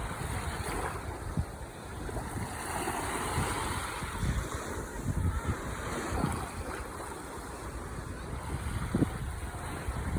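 Ocean waves washing onto the shore in a continuous rush, with one wave swelling up about three seconds in. Wind buffets the microphone with low rumbling thumps.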